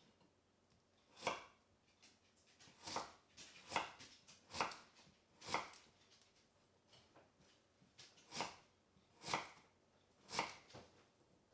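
Kitchen knife cutting vegetables on a cutting board, about eight separate chops at uneven intervals with pauses between.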